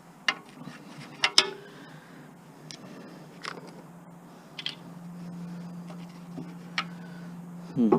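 Light metallic clicks and knocks of tools and small mower parts being handled during the teardown of a lawn mower, about half a dozen spaced strikes, the loudest about a second and a half in. A steady low hum comes in about halfway through, and a brief rising whine sounds just before the end.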